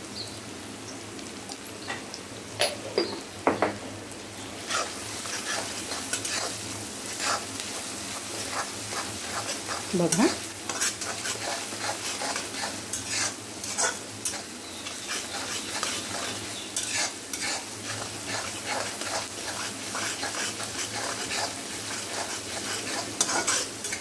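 Chopped onion, garlic and tomato sizzling in hot oil in a steel kadhai, while a metal spatula stirs and scrapes against the pan with repeated clinks.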